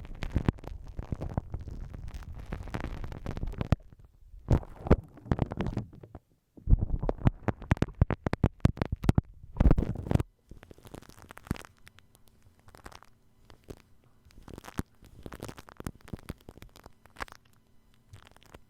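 Slime being squished against a binaural microphone, in loud, dense, wet crackling bursts with a short pause about six seconds in. About ten seconds in it gives way to shaving cream worked over the microphone, which sounds as fainter, finer crackling.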